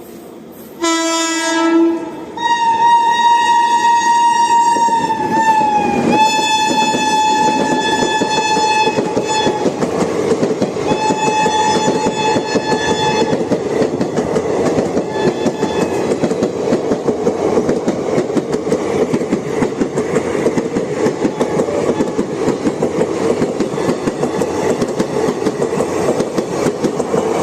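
Passing train's locomotive horn: a short blast, then a long blast whose pitch drops as the locomotive goes by, and another blast a few seconds later. After that come the steady rumble and clickety-clack of the coaches running past.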